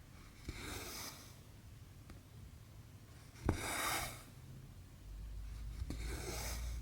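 Cross-stitching by hand: a needle clicks through stamped cotton cross stitch fabric and each time the cotton thread is pulled through with a short rasping hiss. This happens three times, a few seconds apart. A low hum joins near the end.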